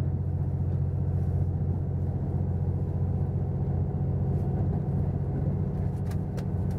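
Steady running noise inside the cabin of a moving diesel limited express train: a low engine drone with rumble from the wheels on the track, and a couple of light clicks about six seconds in.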